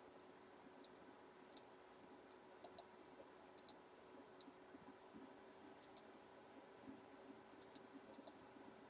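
Faint clicks of a computer mouse, about a dozen scattered single clicks and quick double-clicks, over a faint steady electrical hum.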